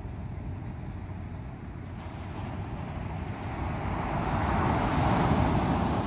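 Ocean surf: a steady low rumble of waves, with one wave building from about halfway and breaking loudest near the end before easing off.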